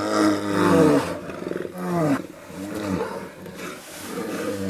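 A large wild animal roaring in a series of calls that fall in pitch, the first about a second long and the rest shorter.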